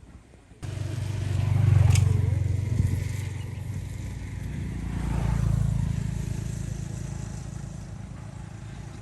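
A motor vehicle's engine running, starting abruptly, swelling louder twice and then fading away as it passes.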